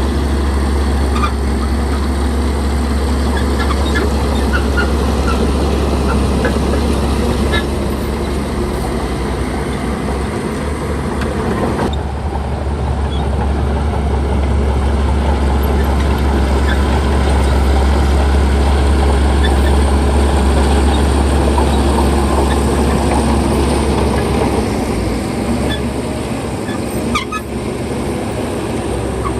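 Heavy diesel earthmoving machinery running steadily, with a strong low engine drone and occasional short high squeaks.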